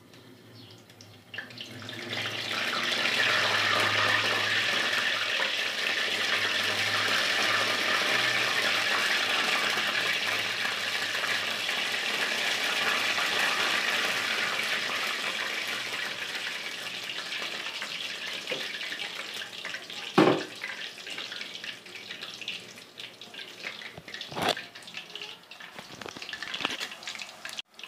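Jalebi batter frying in hot ghee: a loud sizzle sets in about a second in, holds, then slowly dies away. Two sharp knocks come near the end.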